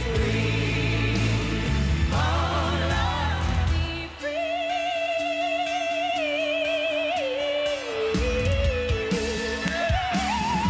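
Live rock band music with a sung melody line. About four seconds in the bass and drums drop away under a long wavering held note, and the full band comes back in about four seconds later.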